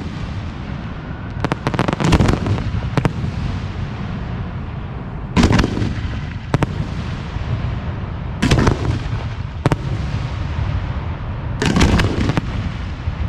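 Aerial firework shells (4- to 6-inch) launching and bursting in a fireworks display. Sharp booms come every second or two, about nine in all, over a continuous rolling rumble of echoes.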